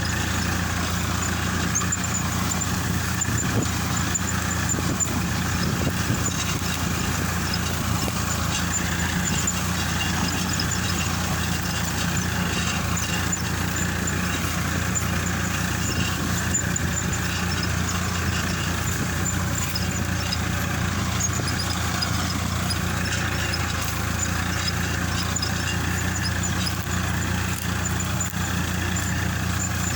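Swaraj 963 tractor's diesel engine running steadily at an unchanging pitch while ploughing.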